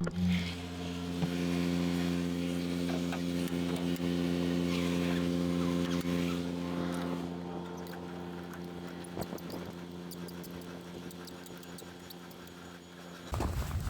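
A steady mechanical hum made of several steady tones, slowly growing fainter, which starts and stops abruptly.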